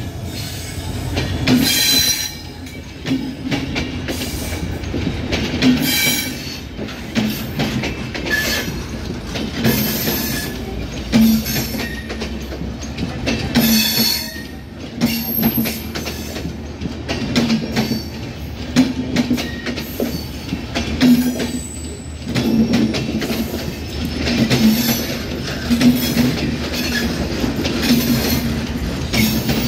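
Bangladesh Railway intercity passenger coaches rolling past close by. The wheels clack over and over across rail joints against a steady rumble, with a high screech from the wheels now and then.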